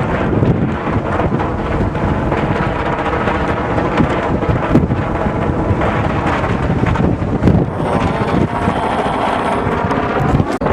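Strong gusty wind buffeting the microphone, a loud, continuous rumble that rises and falls with the gusts.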